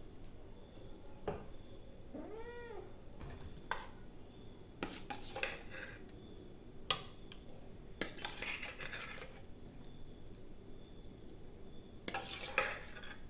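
A cat meows once, a short call that rises and falls in pitch, about two seconds in. Scattered clinks and clatters of dishes and utensils follow, the sharpest near the middle and the end.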